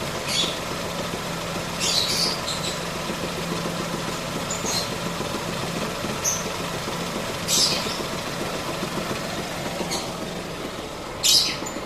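Ford Ka engine idling steadily, the engine the owner says makes a strange noise. Short high-pitched hisses cut in at irregular intervals every few seconds.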